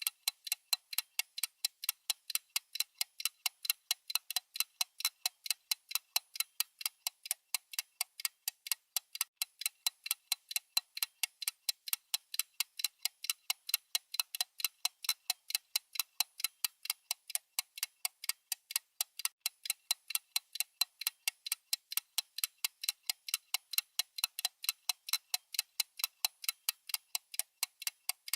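Clock-style ticking sound effect of a countdown timer: sharp, high, even ticks at about three a second, steady and unbroken.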